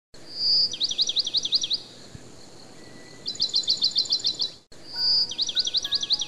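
Bird song: a phrase repeated three times, each a held high whistle followed by a quick run of downward-sweeping notes at about six a second. The sound breaks off briefly about two-thirds through, and a soft melody of held notes comes in underneath near the end.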